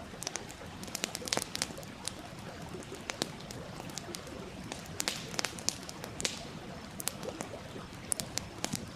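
Wood fire crackling, with irregular sharp pops and snaps over the steady rush of a stream.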